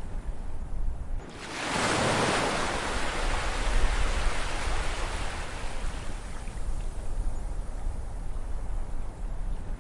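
Ocean waves: about a second and a half in, a wave breaks in a loud rushing wash that slowly fades over the next several seconds, over a steady low rumble of surf.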